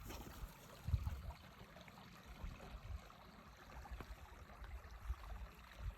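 Faint running water of a small stream, with a few soft low thumps, about a second in and again near the end.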